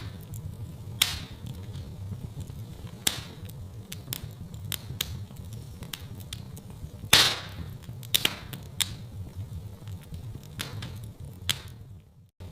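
Wood fire crackling in a fireplace: irregular sharp pops and snaps over a low steady rumble, with the loudest pops about a second in and about seven seconds in. The sound drops out briefly just before the end.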